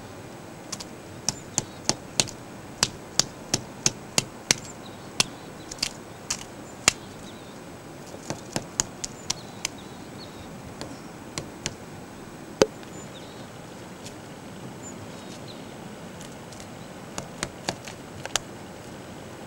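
Woodpecker pecking at wood: single sharp taps, a few a second in irregular runs, not a fast drumming roll. The pecking stops for several seconds in the middle and resumes briefly near the end.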